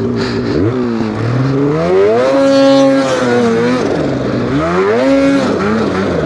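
Polaris Khaos Boost snowmobile's turbocharged two-stroke engine revved up twice, each rev held briefly and then let off, as the stuck sled is driven out of deep snow.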